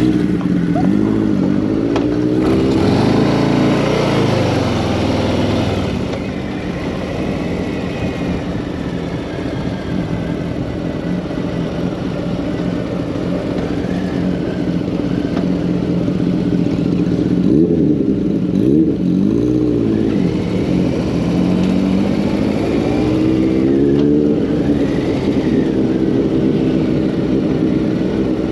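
Harley-Davidson Street Bob 114's Milwaukee-Eight V-twin heard from the saddle while riding at low speed. The engine note rises and falls several times as the bike accelerates and eases off.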